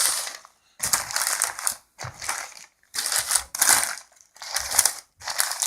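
Crinkly plastic packaging being handled and pulled about, in a run of rustling bursts about a second long with short gaps between them.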